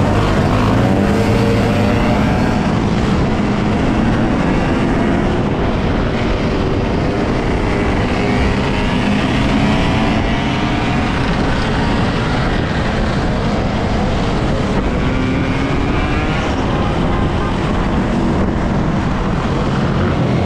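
Off-road motorbike being ridden, its motor pitch rising and falling with the throttle, over heavy wind rush on the microphone.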